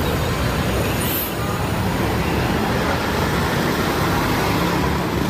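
Steady vehicle rumble and hiss like passing road traffic.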